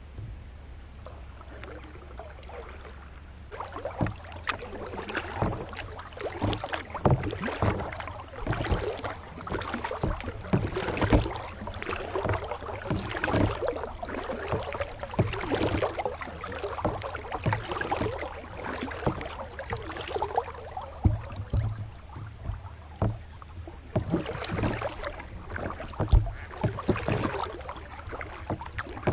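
Kayak paddle strokes in calm water: blades dipping and splashing, with water trickling off them in an irregular, continuous run. The first few seconds are quieter, with only a low steady hum.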